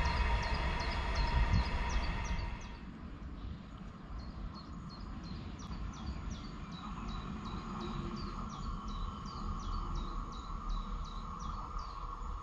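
Train rolling away, its rumble fading over the first three seconds. Short chirps then repeat about two or three times a second, with a faint steady hum from an approaching train building in the second half.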